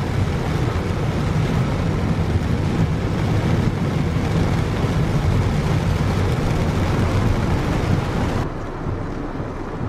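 Car driving through torrential rain and standing water, heard from inside: a loud, steady, deep noise of heavy rain on the car and tyres throwing up spray. About eight and a half seconds in, the sound changes abruptly to a quieter, duller rush.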